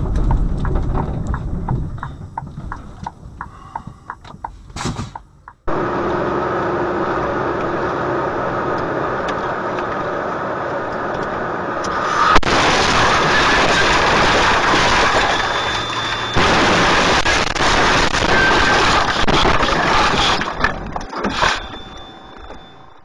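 Road and tyre noise with engine sound recorded by car dashcams, several clips in a row, with one sharp bang about twelve seconds in.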